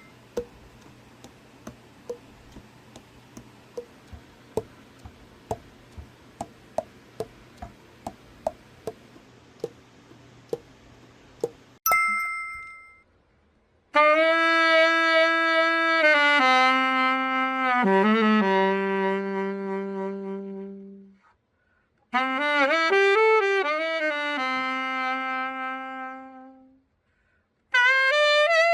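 A two-tone chime, then soft even ticking about twice a second, then another chime. After that, a Selmer Mark VI alto saxophone plays slow phrases of long held notes, stepping down in pitch with short bends, in two phrases separated by a pause and starting a third near the end.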